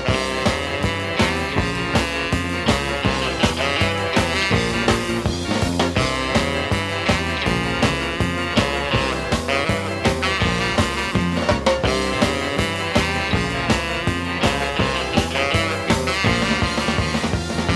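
Ska band playing an instrumental passage with a steady, driving beat: full band, no vocals.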